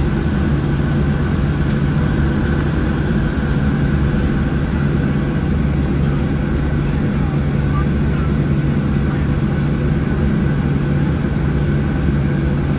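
Cabin noise inside a Boeing 737-700: its CFM56 engines running steadily at low power, a constant drone with a low hum, and a faint high whine that fades out about four seconds in.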